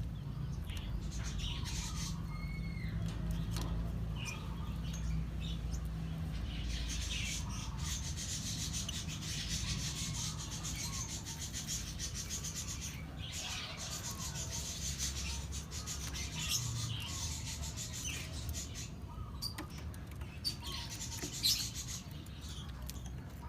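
Lovebirds chirping in short calls, with rustling and rubbing sounds and a steady low hum underneath.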